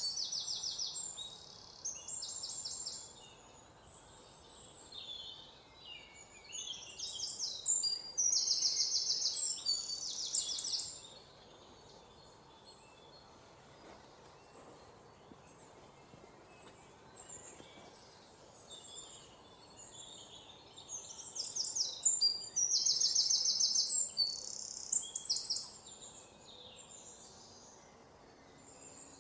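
Small songbirds singing high-pitched, rapid trills and chirps in bouts of a few seconds, loudest near the start, in the middle and again past the two-thirds mark. Quieter stretches with a faint steady background hiss lie between the bouts.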